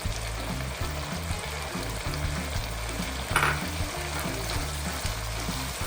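Sliced onions sizzling as they fry in hot oil in a pan, over soft background music, with one short sharper sound about three and a half seconds in.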